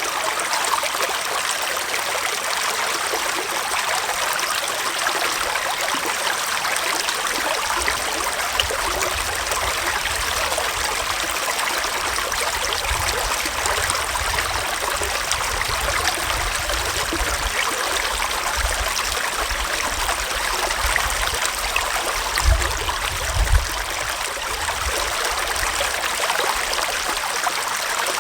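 Gentle forest stream flowing steadily, a continuous rush and trickle of water. A low rumble comes and goes underneath in the second half, strongest a few seconds before the end.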